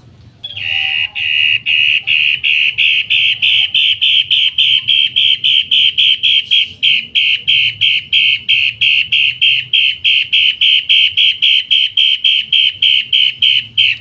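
Cendet matahari calling: a loud, harsh string of identical short notes repeated about four times a second without a break. It starts about half a second in and cuts off just before the end.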